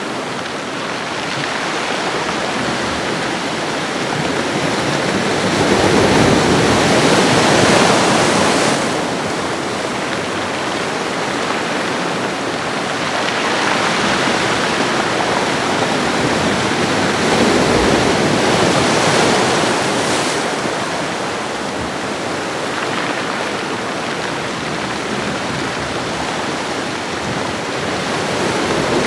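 Ocean waves washing onto a shoreline: a steady hiss of surf that swells and eases in slow surges, with three larger waves breaking in turn.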